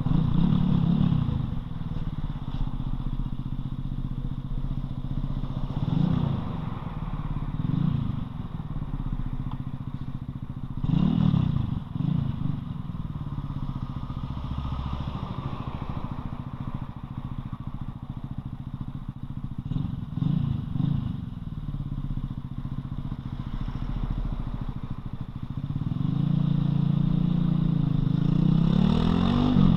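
Loncin LX250-12C motorcycle engine running on the move, its revs rising and falling several times. It runs louder and harder for the last few seconds.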